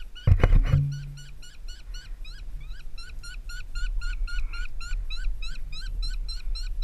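A bird calling in a rapid, even series of short pitched notes, about five a second, throughout. A heavy knock or bump comes about half a second in.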